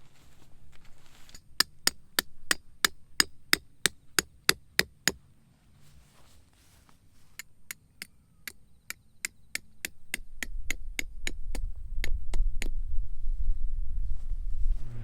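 Rapid, evenly spaced hard knocks, about three a second, in two runs, the second starting about seven seconds in. A low rumble builds under the second run and is the loudest thing near the end.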